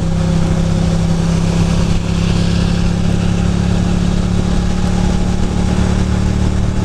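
Ducati Monster 620's air-cooled L-twin engine running at a steady speed on the move, its pitch holding level, over a steady hiss of wind and rain.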